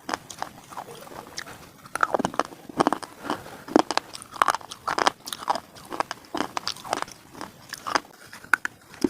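Hard slate pieces being bitten and chewed: a steady run of sharp, crisp crunches and snaps, several a second.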